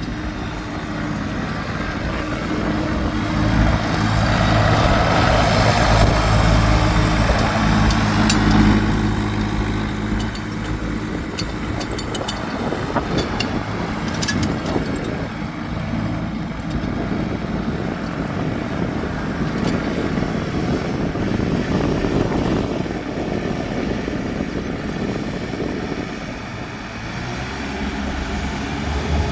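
New Holland compact tractor's engine running, louder from about three to nine seconds in, then with a rougher, noisier sound.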